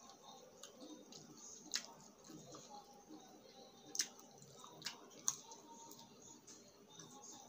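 Chewing of crisp fried egg chicharon chips, with four sharp crunches, the loudest about four seconds in.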